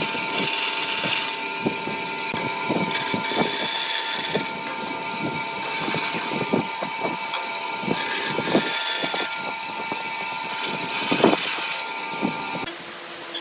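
An electric power tool running with a steady whine, with irregular knocks and clatter of wood being worked; the motor stops near the end.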